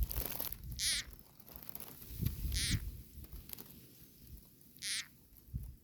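Frog giving a distress scream while caught by a snake: three short, high calls, each falling in pitch, spaced about two seconds apart.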